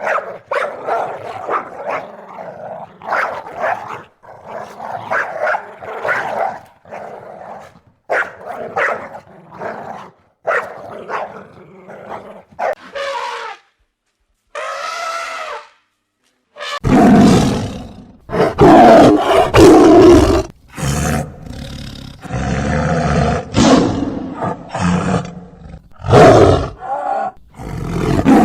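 A series of animal calls: many short calls in the first half, one brief pitched call, then louder, deeper calls from about two-thirds of the way in.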